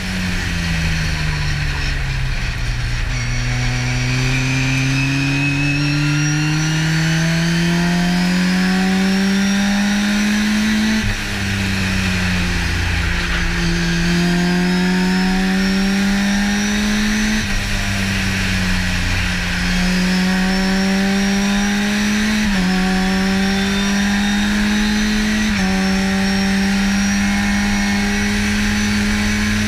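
Race car engine heard from inside the cockpit under hard acceleration. Its pitch sinks as the car slows into a bend in the first few seconds, then climbs and drops suddenly at each upshift, about five times.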